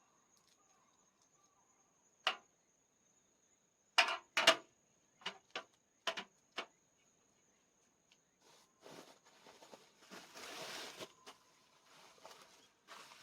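Seven or so sharp clicks and knocks between about two and seven seconds in, the loudest pair near four and a half seconds, followed by a stretch of rustling.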